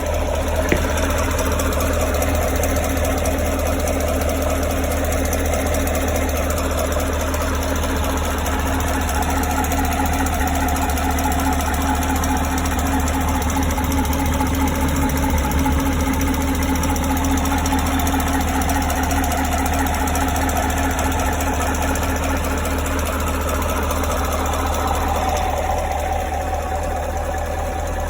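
2017 Chevrolet Camaro's 6.2-litre V8 idling warm, with a steady fast ticking running through the idle. The tick only appears once the engine is at operating temperature. It seems to come from the rear of the engine bay on the driver's side, and from below near the oil filter/pump, and the owner wonders whether it means engine damage is coming.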